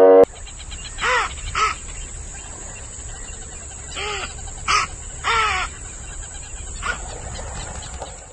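Crow cawing: about six short, harsh caws in two groups, over a steady high hiss like insects.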